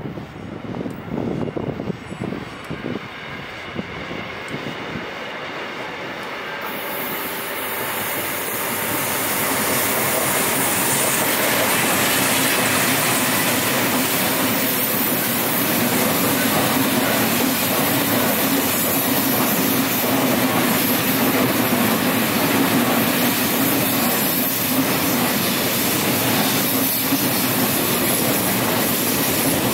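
A train running along the tracks, growing louder over the first several seconds and then holding steady and loud, with a steady low tone under the noise of the wheels on the rails.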